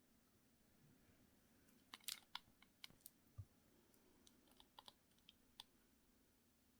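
Faint, irregular light clicks and taps, a quick cluster about two seconds in and a few scattered ones after, over near silence.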